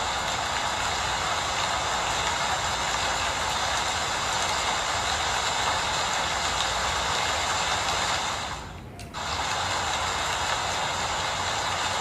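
Steady rain falling, an even hiss that briefly drops away for about half a second some nine seconds in.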